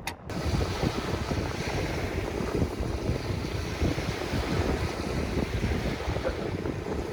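Sea surf and wind, with wind buffeting the microphone: a steady rushing noise with low rumble, starting abruptly just after a short click at the very beginning.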